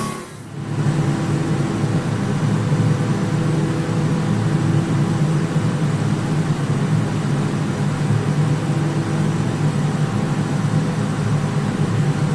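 Industrial machinery running steadily: a constant low hum with a few faint steady tones above it. It starts a fraction of a second in, right after a short drop in level.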